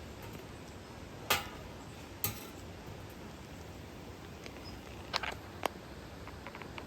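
Campfire wood crackling: four sharp snaps spread over several seconds, with a few faint ticks near the end, over a steady low hiss.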